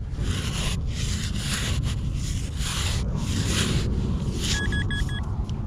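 Sand scoop scraping and shaking through beach sand in about six rasping strokes, followed near the end by four quick beeps from a Minelab Vanquish 440 metal detector.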